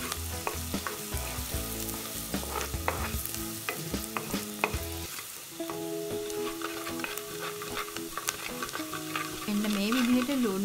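Chopped onion, garlic and mustard seeds sizzling in hot coconut oil in a clay pot. A wooden spoon stirring them scrapes and clicks against the pot.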